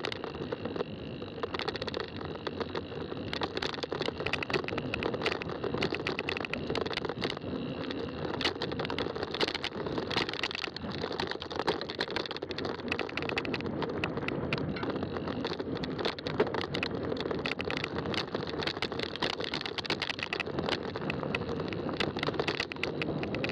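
Fat-tire mountain bike rolling along a trail, with a steady tyre rumble and frequent small clicks and rattles over the bumps.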